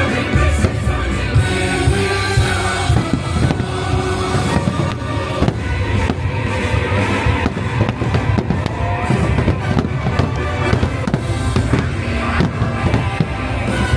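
Fireworks bursting in quick succession, many bangs and crackles over loud show music.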